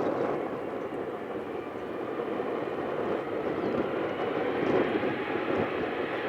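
Jet engine noise from an Airbus A220-300's Pratt & Whitney PW1500G geared turbofans at takeoff power: a steady, noisy rumble.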